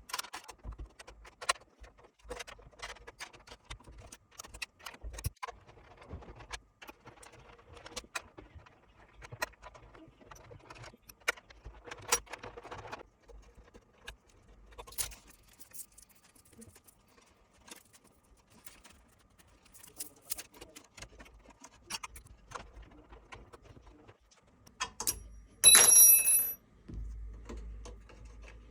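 Scattered light clicks, taps and rattles, like small objects being handled. About 26 s in comes a louder burst of about a second with a high ringing squeal in it.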